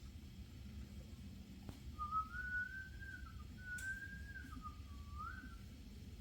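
A person whistling a short wavering tune of a few phrases, starting about two seconds in and lasting about three and a half seconds, over a low steady background rumble.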